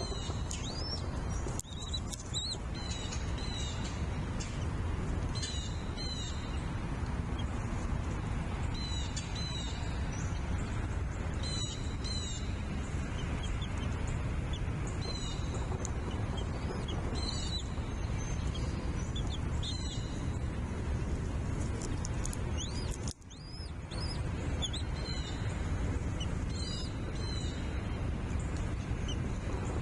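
Birds chirping: short, high calls in quick clusters every second or two, over a steady rumble of wind on the microphone. The audio drops out briefly about three quarters of the way through.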